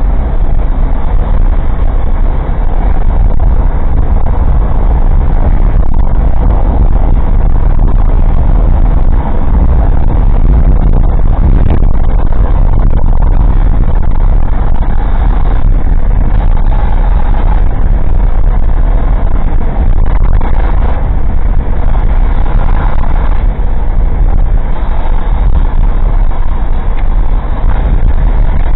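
Cabin noise of an old Suzuki Jimny kei car driving, picked up through a cheap dashcam's microphone: a loud, steady engine and road rumble.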